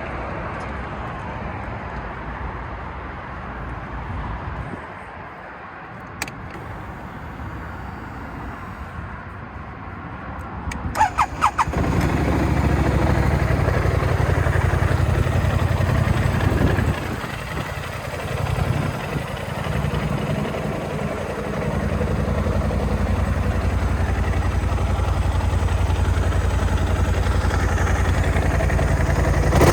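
BMW C650GT maxi-scooter's parallel-twin engine cold-started: after a few clicks, the starter cranks briefly about a third of the way in and the engine catches. It then idles steadily, dropping in level for a few seconds midway before settling into an even idle.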